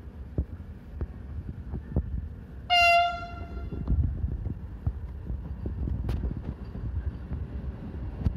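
Vande Bharat Express electric train set passing at speed: a low rumble with occasional sharp clacks from the wheels on the track, and one short single-note horn blast about three seconds in, the loudest sound.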